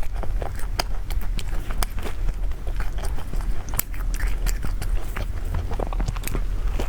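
Close-up eating sounds: a person biting into and chewing food, with irregular small crisp clicks and mouth noises over a steady low hum.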